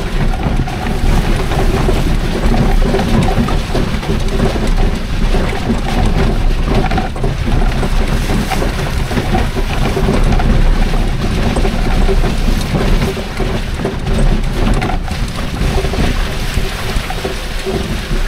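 Two-wheel-drive golf cart driving along: a steady drone over a heavy low rumble, with wind and rain on the microphone.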